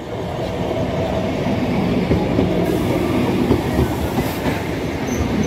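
Eastern Railway EMU electric local train running past close by, its wheels rumbling over the rails, growing louder over the first two seconds as the coaches reach the spot and then holding steady.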